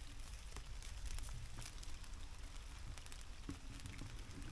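Light rain pattering on riverside grass and the river's surface: many scattered drop ticks over a low steady rumble.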